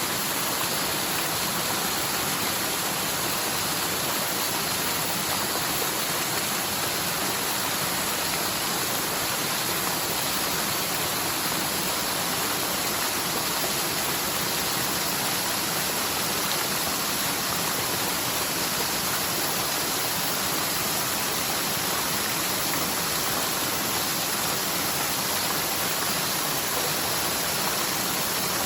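Mountain forest stream in spate after typhoon rains, water rushing steadily downhill: a normally near-dry streambed running full after heavy rain. The rush is even and unbroken.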